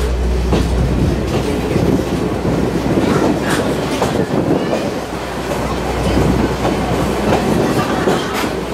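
Two-axle trolley car of a sightseeing train running along the line: a steady rumble with the wheels clacking over the rail joints at irregular intervals, the rough, jolting ride of a short two-axle car.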